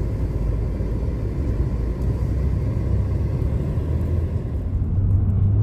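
Car interior road noise while driving: a steady low rumble of engine and tyres, with a low hum growing stronger near the end.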